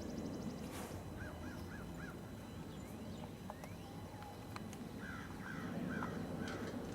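A bird calling in two runs of about four short, arching notes each, over a steady low rumble.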